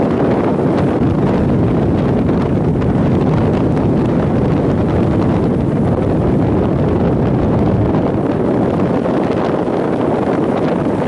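Strong typhoon wind buffeting the microphone in a steady, loud rumble, over the roar of heavy surf.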